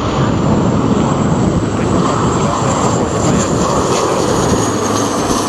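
Jet airliner passing close by on its landing approach: loud, steady engine noise with a thin high whine that slowly drops in pitch during the second half as the aircraft goes past.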